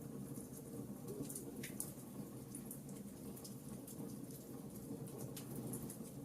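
Wood fire crackling, with scattered sharp pops, over a steady low rumble of rain.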